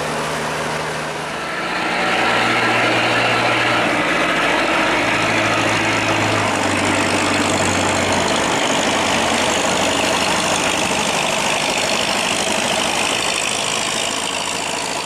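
A boat's inboard engine running steadily under a dense rushing hiss, growing louder about two seconds in and then holding.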